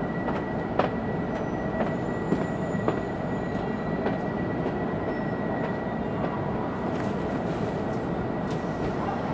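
Running noise heard from inside an E2 series Shinkansen car: a steady rumble with a thin, steady high tone over it. A few sharp clicks come in the first three seconds.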